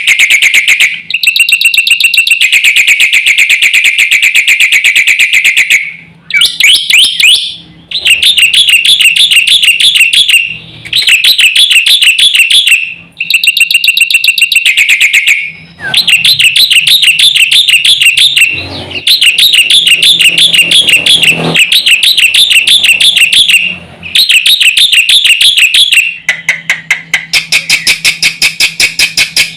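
Black-winged myna (jalak putih) singing loudly: long runs of fast, harsh chattering notes, a few seconds each, broken by short pauses.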